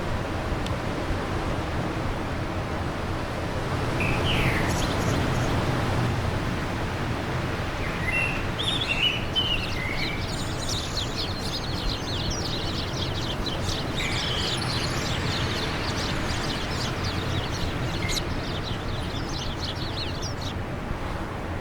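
Steady wind blowing, with songbirds chirping over it. A few scattered calls come first, then from about halfway a bird gives a long run of fast, repeated high chirps that stops shortly before the end.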